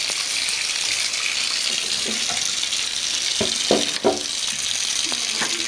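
Steady hiss of running water, with a few short knocks and brief tones about three and a half to four seconds in.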